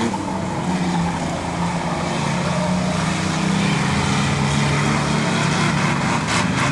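Engines of racing trucks running laps on an oval track, a steady engine drone that grows gradually louder as the pack comes nearer.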